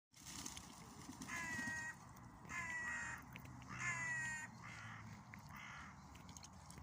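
A crow cawing five times, with the last two calls fainter.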